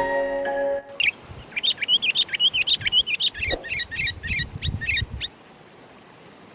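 A bird singing one song phrase of rapid, sweeping high notes that come faster and closer together toward the end, stopping about five seconds in. A short bell-like mallet-instrument music sting ends just before the song starts.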